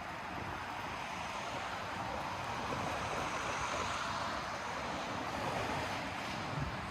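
Street ambience: a steady hiss of passing traffic that swells gently midway and eases off.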